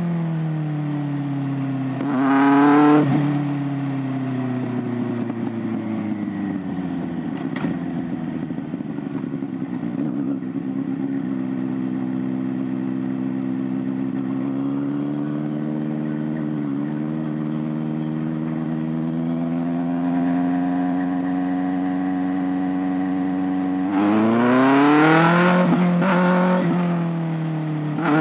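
Kawasaki ZX-6R 636's inline-four engine. It drops in pitch at first, then gives a short rev about two seconds in. It runs steadily at lower revs for about twenty seconds, and near the end it accelerates with steeply rising pitch, dipping briefly at gear changes.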